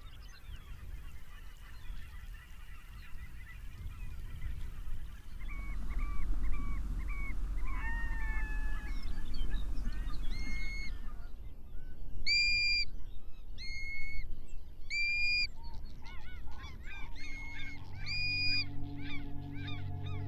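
Geese honking: many short, repeated calls from several birds overlapping, faint at first and growing louder and clearer about halfway through, over a low rumble.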